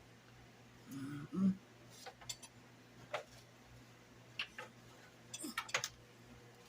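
Scattered sharp pops and ticks, a few seconds apart and bunched near the end, from a skillet of floured liver frying in oil, over a faint steady hum. A short "mm-hmm" about a second in.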